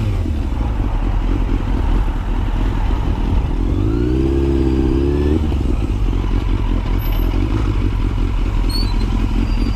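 Motorcycle running with steady low engine rumble and road and wind noise. Near the middle, a wavering pitched sound is held for about a second and a half.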